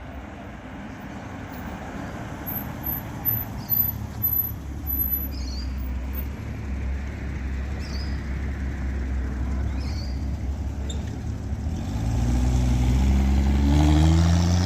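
Classic car engines running as cars pull out; about twelve seconds in, one car accelerates close by, its engine note rising in steps and getting louder.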